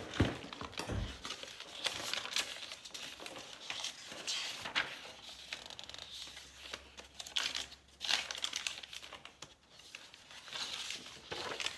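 Paper rustling and crinkling as the pages and loose paper pieces of a handmade junk journal are handled and turned, in uneven rustles with short pauses.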